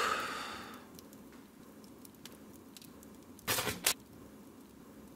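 A short, sudden burst near the start that fades over about a second, then two sharp cracks about half a second apart: gunshots.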